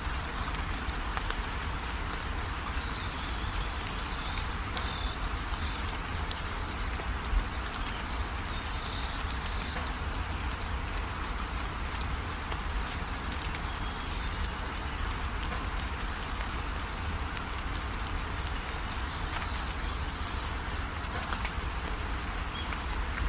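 Steady rain falling, with birds chirping in short high calls through it, over a constant low rumble. A single sharp tick stands out about seven seconds in.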